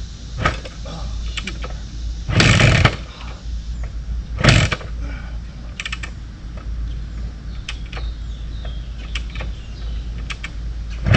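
A 1974 Kawasaki KS125 two-stroke single being kickstarted, firing briefly for about half a second a couple of seconds in and once more, shorter, about two seconds later, without keeping running. Light mechanical clicks and rattles between the firings.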